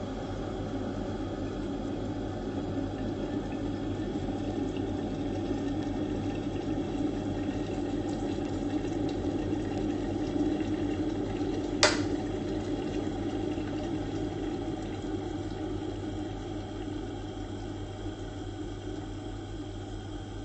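OXYGEN EK-188 electric kettle heating water to the boil, a steady rushing, bubbling noise that slowly builds. About halfway through there is a single sharp click, after which the sound gradually dies down.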